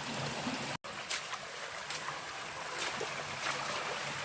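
A forest stream running and trickling, with a steady rush of water, broken by a brief silent gap about a second in.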